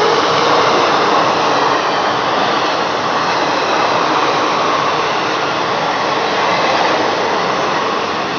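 Indian Railways mail train's coaches running past the platform: a steady, even rush of wheel and track noise.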